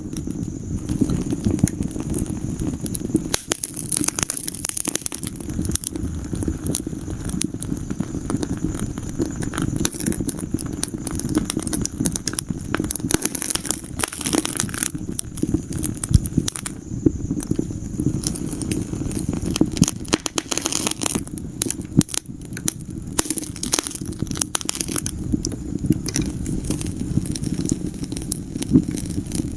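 Wood fire in a fireplace crackling and popping in dense, irregular snaps over a steady low rumble.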